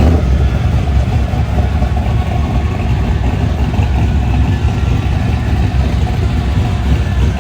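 Engines of cars and pickups idling as they creep in line into a show field, a steady low engine sound.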